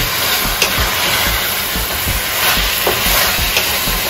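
Chicken pieces sizzling in hot mustard oil in a kadhai as they are stirred with a spatula, a steady frying hiss with a few light clicks from the spatula.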